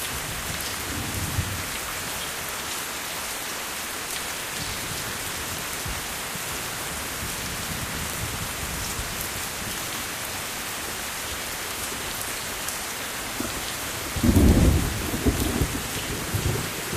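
Steady heavy rain falling, with a faint roll of thunder about a second in and a louder, longer rumble of thunder starting near the end.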